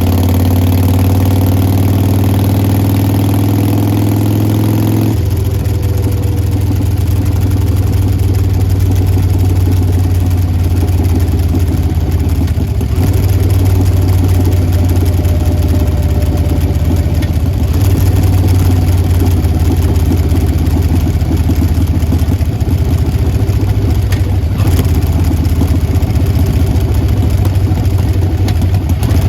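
Harley-Davidson Sportster Forty-Eight's air-cooled 1200 cc V-twin idling through Vance & Hines Short Shots exhaust, a loud, steady exhaust note. About five seconds in, the sound shifts abruptly to a lower, choppier idle beat that holds steady.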